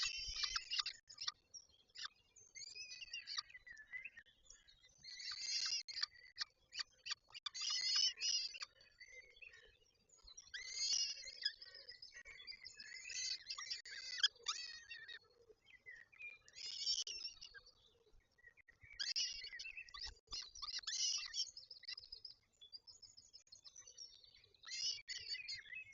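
Peregrine falcons calling at the nest, a series of high, harsh calls in bouts every couple of seconds, with scattered sharp clicks between them.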